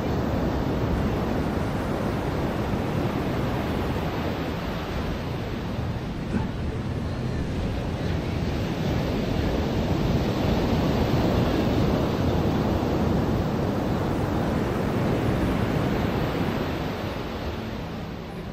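Ocean surf washing onto a beach: a steady noisy rush of breaking waves that swells in the middle and eases off near the end.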